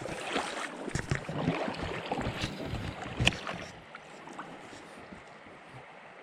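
A few seconds of close rubbing and knocking noises with one sharp click near the middle, over the steady rush of a flowing river that carries on after the knocking stops.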